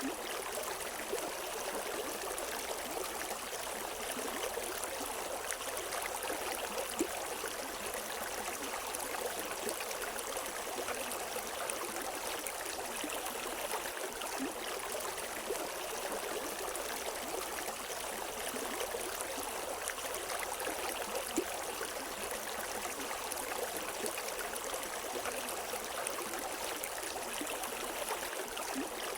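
River water flowing steadily over rocks, a continuous rushing with small splashes and gurgles throughout.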